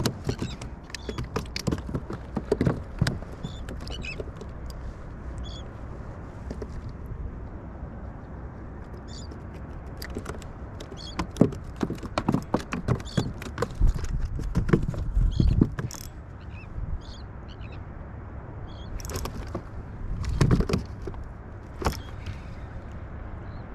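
Irregular knocks and clatter, in bunches, over a steady low rumble: fishing gear and handling on a kayak.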